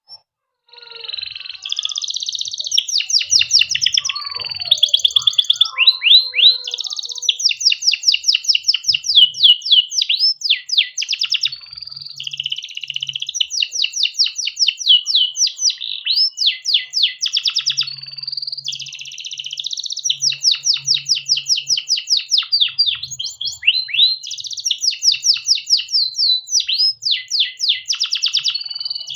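Domestic canary singing a long unbroken song that starts about a second in. Rapid rolling trills of repeated notes alternate with buzzy passages and short rising and falling whistles.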